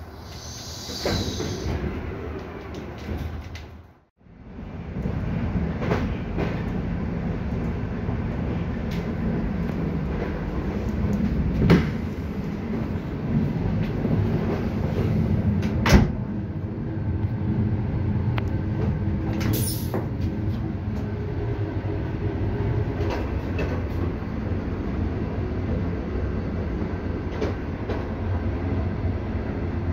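A Stadler FLIRT electric multiple unit heard from inside the car. A short hiss about a second in, a brief dropout near four seconds, then the steady low rumble of the train running, with a couple of sharp knocks.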